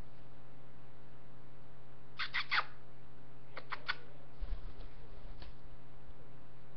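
Cockatiel giving two quick runs of about three short chirps, a second apart, over a steady electrical hum; a low rumble follows near the middle.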